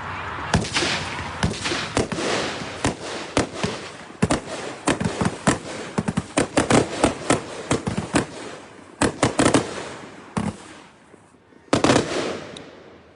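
'Military Grade' consumer firework cake firing: a rapid, irregular string of sharp bangs and crackles for about ten seconds, thinning out, then one last loud bang near the end.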